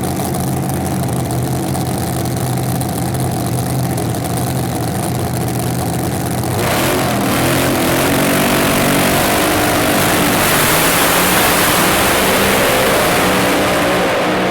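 Drag car engine running steadily at idle, then from about seven seconds in growing louder, its pitch climbing as it revs up.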